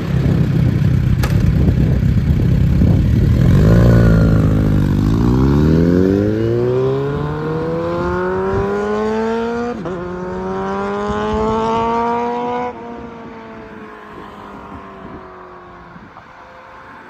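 Kawasaki Z900RS inline-four with an aftermarket Striker × Nitro exhaust, running at low revs and then accelerating hard: the exhaust note climbs steadily, drops once near the middle at an upshift and climbs again. About four-fifths of the way through the throttle closes suddenly, and the note fades away, slowly falling in pitch.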